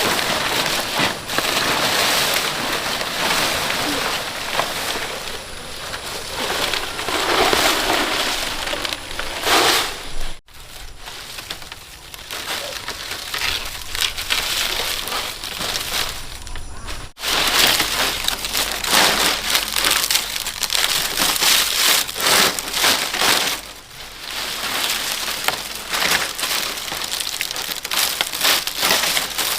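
Dry palm fronds rustling and crackling as they are handled and laid as roof thatch. The sound breaks off abruptly twice.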